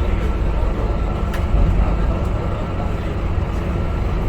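Scania K250UB city bus's diesel engine running: a steady low rumble with a faint steady whine over it, and one sharp click about a second and a half in.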